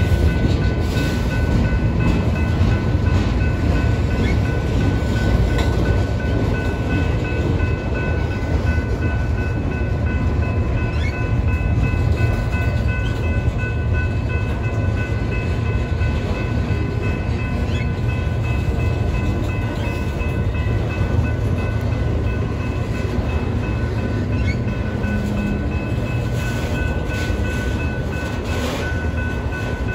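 Freight train of autorack cars rolling past: a steady rumble and rattle of wheels and car bodies, with steady high ringing tones held over it.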